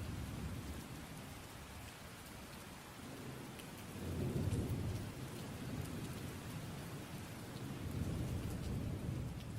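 Steady rain with low rolls of thunder, swelling about four seconds in and again near the end.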